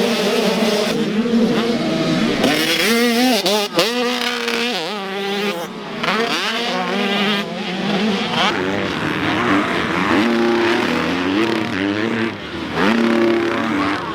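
Several motocross dirt bike engines revving hard, their pitch climbing and dropping again and again through gear changes and throttle blips.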